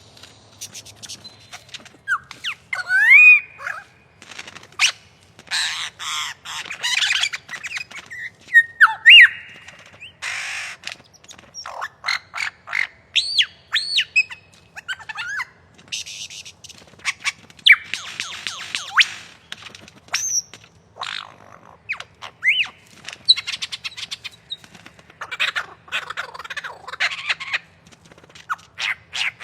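Lyrebird singing a varied mimicry song: whistled notes sweeping up and down, rapid clicks and chatter, and stretches of harsh rattling, in quick phrases with short gaps between them.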